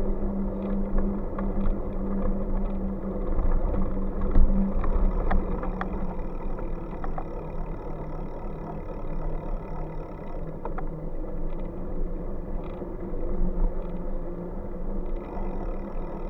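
Steady riding noise from a moving bike: a low rumble with a steady hum and scattered clicks and knocks.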